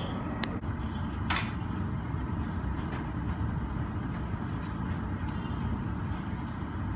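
Steady low rumble of airport apron noise, with a sharp click about half a second in and a brief hiss just after a second.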